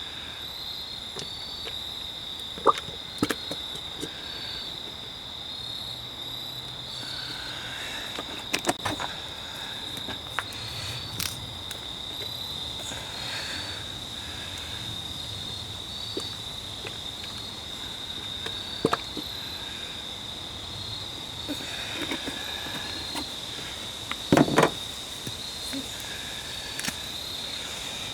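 Insects trilling steadily at a high pitch, with scattered clicks and knocks from work on the truck and a louder thump near the end.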